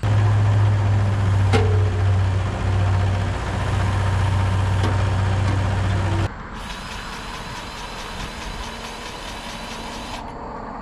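A diesel engine running steadily and loudly, with a deep even hum. About six seconds in it cuts abruptly to a quieter, steady mechanical running noise.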